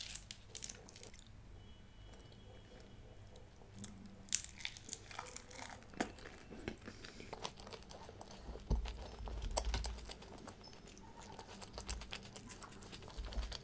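Close-miked chewing of a mouthful of flatbread and curry, with small sharp mouth clicks and crunches scattered through. There is a low bump about nine seconds in.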